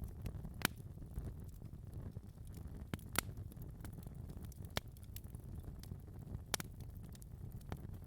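Wood fire crackling in a fireplace: a low steady rumble of burning with sharp pops and snaps scattered through it, the loudest about half a second, three seconds and six and a half seconds in.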